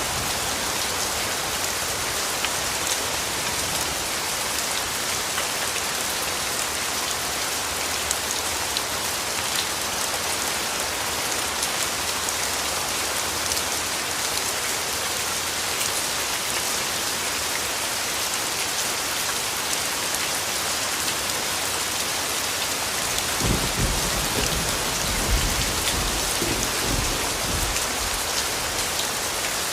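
Steady rainfall, an even hiss of drops on surfaces, with a low rumble of distant thunder rolling in about three-quarters of the way through.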